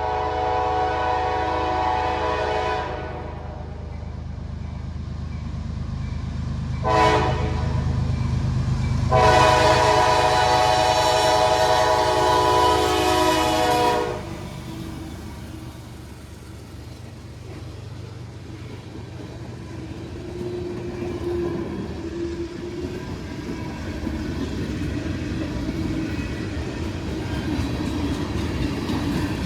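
CSX freight locomotive horn sounding a long blast, a short one about 7 seconds in, and a longer blast ending about halfway through. Under and after the horn, the steady low rumble of the locomotive and the loaded freight train rolling past.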